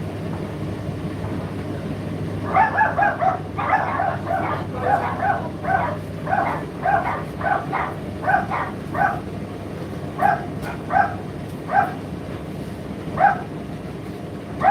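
A dog barking over and over, starting about two seconds in with a quick run of short barks that spread out later, over the steady low hum of an Indesit IDC8T3 condenser tumble dryer running.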